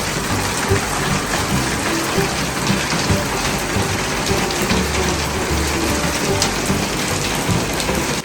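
Steady rain pouring down and pattering on surfaces, an even hiss throughout, with faint background music with bass notes underneath.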